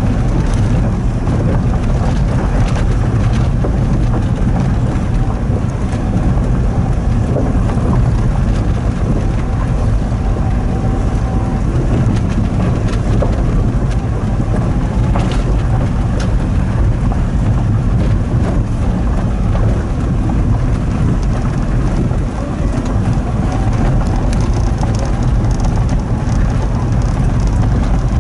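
Daihatsu Hijet kei truck driving on a rough track: a steady low rumble of engine and tyres, with scattered crackles and clicks.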